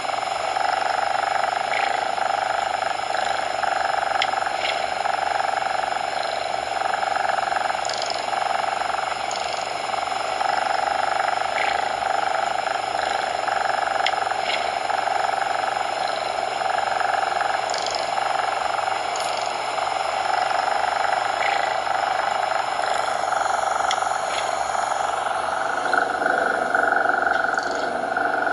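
Steady synthetic coloured noise: an even hiss concentrated in a mid-pitched band, its tone shifting slightly about 26 seconds in.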